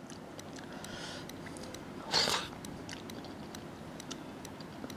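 A person quietly chewing a mouthful of paratha dipped in mushroom gravy, with small mouth clicks and one short breathy noise about two seconds in.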